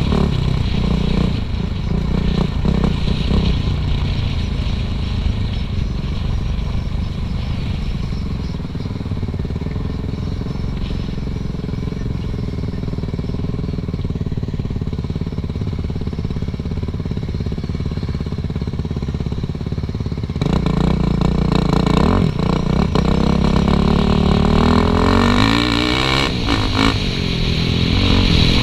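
Suzuki RM-Z450 dirt bike's four-stroke single-cylinder engine running on a trail, held at lower revs through the middle, then opened up sharply about twenty seconds in, with the revs rising and falling through the gears.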